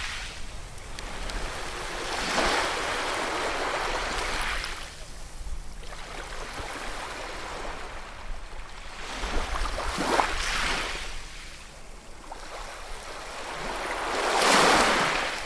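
Sea waves breaking and washing ashore in three surges of surf, the last the loudest.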